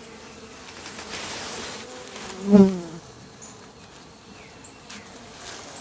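Honey bees buzzing around an opened hive as a steady hum. About two and a half seconds in, one bee passes close to the microphone with a brief loud buzz.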